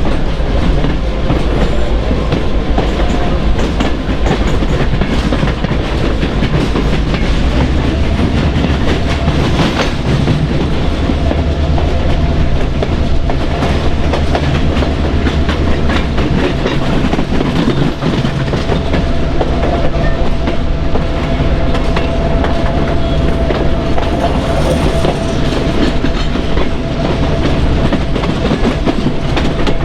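Train running along the track: a steady rolling noise with wheels clicking over rail joints, joined about a third of the way through by a faint steady high tone.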